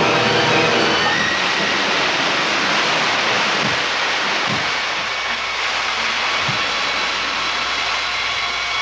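A steady, loud rushing noise from a film soundtrack's sound effects, with a few soft low thuds in the middle; music fades out within the first second.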